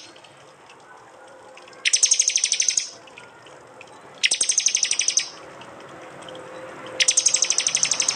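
Prinias (prenjak) giving their 'tembakan' call, the loud rapid-fire burst used to master songbirds. There are three bursts of about a second each, each a fast run of sharp high notes at roughly fifteen a second, a second or two apart.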